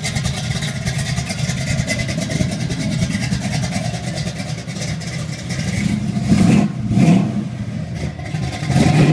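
1973 Dodge Challenger's 440 V8 idling, revved briefly about three times in the second half.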